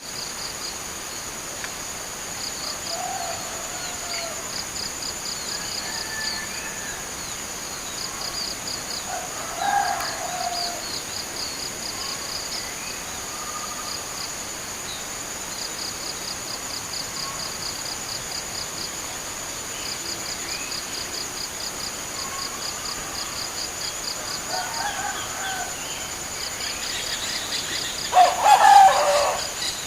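Wild zebra dove cooing in short phrases against a steady high insect drone and runs of rapid pulsed insect chirping, with other birds calling now and then. The loudest coo comes near the end.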